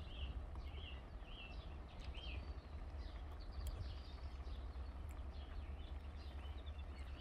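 Faint birdsong: small birds chirping in short repeated phrases, over a low steady rumble.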